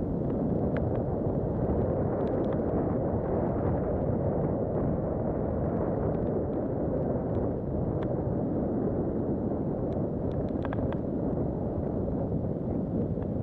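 Steady rush of wind buffeting the camera microphone while a mountain bike is ridden down a dirt trail, with scattered light clicks and rattles from the bike and its tyres on stones.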